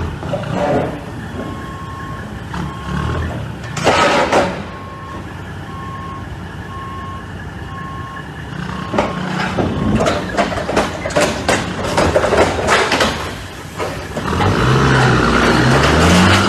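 A vehicle's reversing alarm beeping about once a second, with a loud bang about four seconds in. A run of clattering knocks follows from about nine seconds, and an engine revs up near the end.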